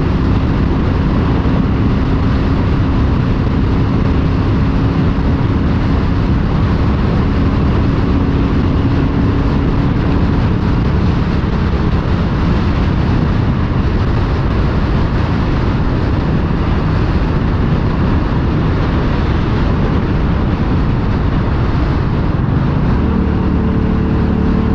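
Motorcycle engine running at road speed under a steady rush of wind noise on the rider's microphone; the engine note changes shortly before the end.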